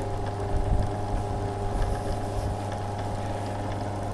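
Flexispeed mini lathe running under power: its belt-driven electric motor hums steadily while the chuck spins. A few low knocks come in the first couple of seconds.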